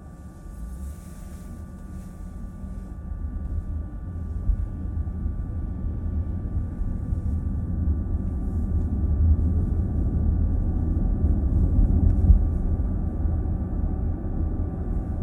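Low road and tyre rumble heard inside a moving car's cabin, growing steadily louder over the first ten seconds or so as the car gathers speed, with a faint steady high hum underneath.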